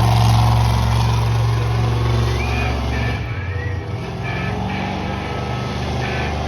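Monster truck engine running at idle, a steady low rumble that drops and changes about halfway through.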